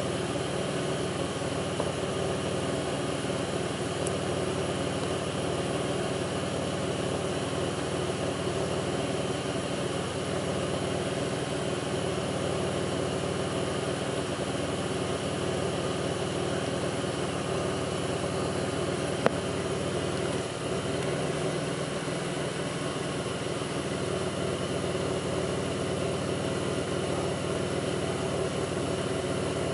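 2002 Pontiac Grand Prix's 3800 V6 engine idling steadily, with one sharp click about two-thirds of the way through. The owner's complaint is a rough idle with faint intermittent thumping that pulls the idle down.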